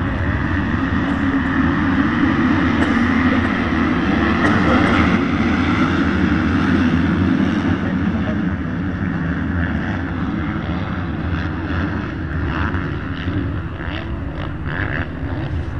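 Many motocross bikes' engines running together at high revs, a dense mass of engine noise. It swells to its loudest several seconds in, then slowly fades.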